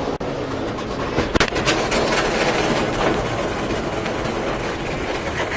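NASCAR Cup race cars running on track, a steady noisy rumble, with a quick run of sharp knocks about a second and a half in.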